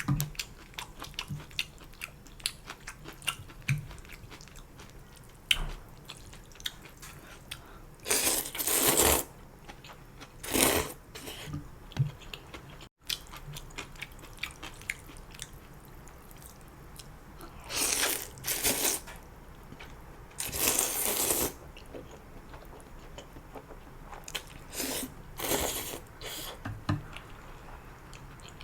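Close-miked eating of Korean noodle soup (janchi guksu): wet chewing and crunching with small clicks throughout, broken by about five loud slurps of noodles, each lasting about a second.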